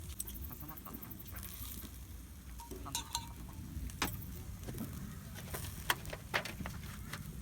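Steak frying in a pan: a steady sizzle with several sharp clicks and pops. There is a brief squeak about three seconds in.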